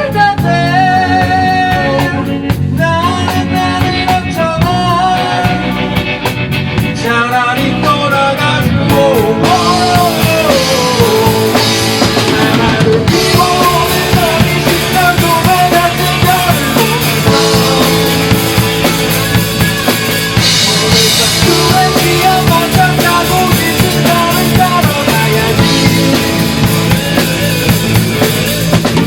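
Rock band playing live: a full drum kit keeps a steady beat under bass and other band instruments, with a lead melody line that bends up and down in pitch.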